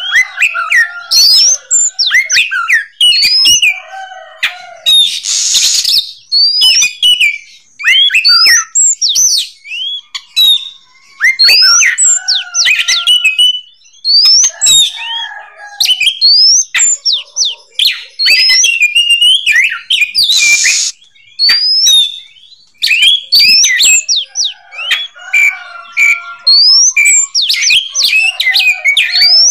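Oriental magpie-robin singing loudly: quick runs of varied whistled notes sliding up and down, in phrases broken by short pauses, with two harsh rasping notes about five and twenty seconds in.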